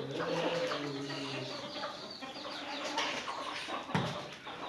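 Desi chickens clucking and calling, with a low drawn-out call in the first second and a half.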